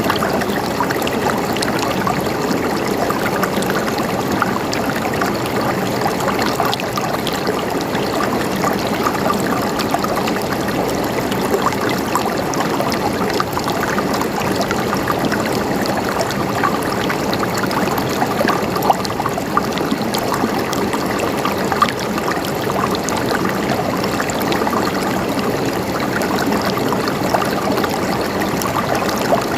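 River water flowing steadily over rocks, a continuous rushing with small splashes and gurgles throughout.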